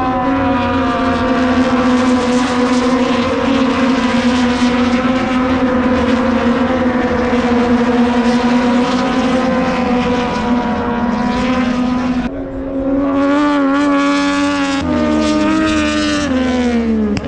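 MotoGP racing motorcycle engine running at high revs with a steady pitch for about twelve seconds. After a sudden change the revs wobble, then fall in steps near the end.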